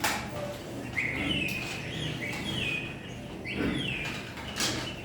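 A bird chirping: a run of short, high chirps, each rising and then falling, coming about every half second from a second in. A sharp click sounds at the start and another near the end.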